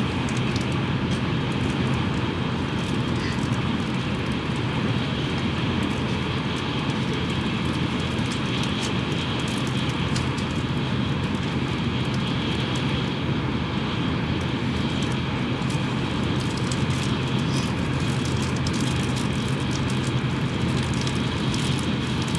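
Steady running noise of a Tokaido Shinkansen train heard from inside the passenger cabin at speed: an even low rumble and rushing hiss with a constant hum, no change in pace.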